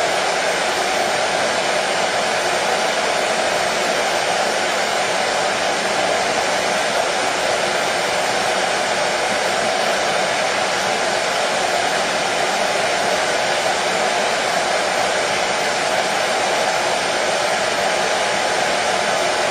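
Hair dryer running continuously: a steady, unchanging blowing noise, used as white noise to soothe colicky babies to sleep.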